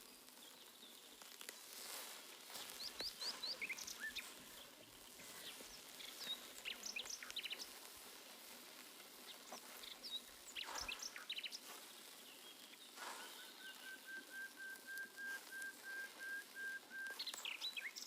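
Small birds chirping and calling in short, high notes. Partway through, a steady run of quick, even notes lasts about four seconds.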